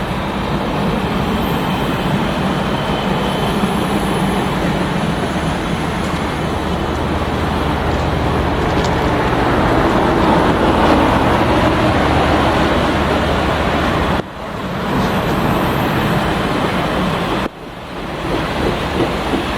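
Big Boy 4014's steam train running past at close range: a loud, steady rumble of rolling cars with a low drone under it. The sound swells toward the middle and cuts out abruptly twice near the end.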